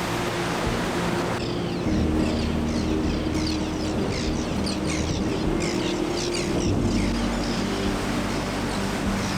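Sea surf washing against a rocky limestone coast, a steady rushing noise. From about a second and a half in until about seven seconds, a run of short high chirps sounds over it, with low sustained tones underneath.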